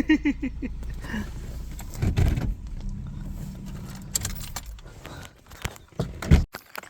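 Car engine running with a steady low rumble, with a few clicks and rattles. A sharp knock comes near the end as the rumble cuts off.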